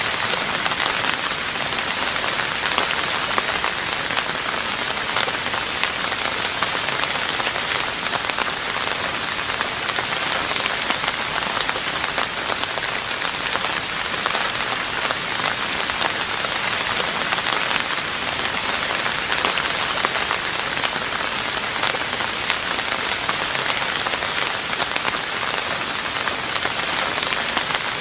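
Steady rain falling on a roof, a dense even patter of drops that neither rises nor falls.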